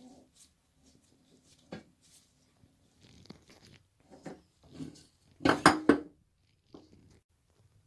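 Toilet tank parts being handled: scattered light clicks and knocks, with a louder plastic clatter about five and a half seconds in.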